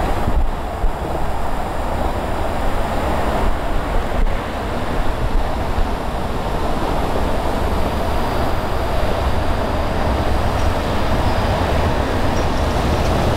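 Electric commuter train running along the tracks: a steady rumble of wheels on rail.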